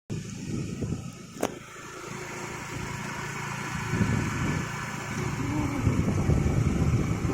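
An engine running steadily under a low rumble, with one sharp click about a second and a half in.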